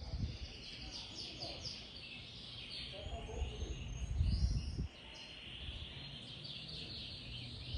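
Birds chirping, with many short, quick, falling chirps repeated throughout, over a low outdoor rumble. The rumble swells about three and a half seconds in and cuts off suddenly about a second later.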